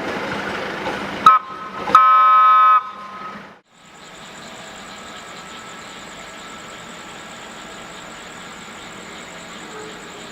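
Locomotive horn: a short toot, then a louder steady blast of about a second, signalling the train's backward shunting move. After a sudden cut, a steady hum with a faint high whine.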